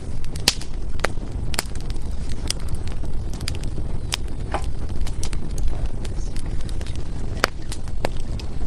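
Firewood burning in a fireplace: irregular sharp crackles and pops, a few of them louder snaps, over a steady low rumble.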